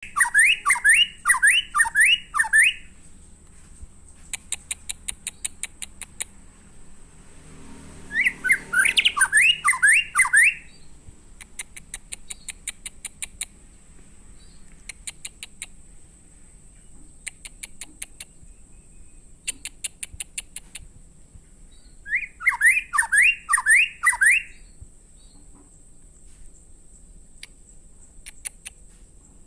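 White-rumped shama (murai batu) singing: three loud bouts of five or six sweeping notes each, about seven to twelve seconds apart, with rapid runs of high ticking notes in between. A faint steady high tone runs underneath.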